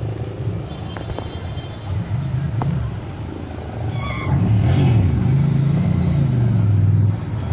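Low engine rumble whose pitch wavers up and down, getting louder about four seconds in and easing off near the end.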